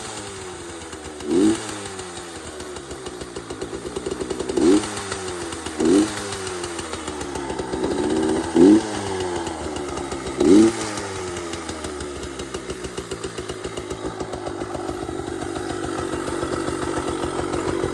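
Yamaha PW80's small two-stroke single-cylinder engine, fitted with an FMF slip-on exhaust and Boyesen reeds, running just after starting: five quick throttle blips in the first ten seconds or so, then settling into a steady idle. The owner takes the clean idle as a sign that the old reeds were going out.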